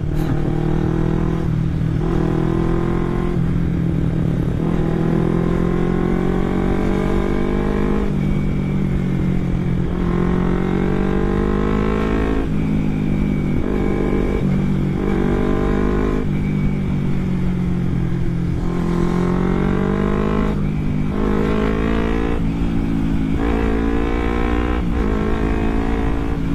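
Kawasaki Ninja 250 carburetted parallel-twin engine through a replica Akrapovic aftermarket exhaust, heard while riding. The engine pitch climbs and drops again and again as the bike revs up and eases off.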